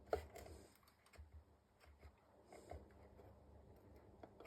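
Near silence with a few faint clicks and taps of small items being handled: one sharper click right at the start, then scattered light ticks.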